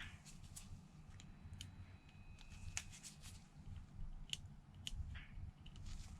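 Faint scattered clicks and ticks of small tools and phone parts being handled during a phone screen repair, over a low steady hum.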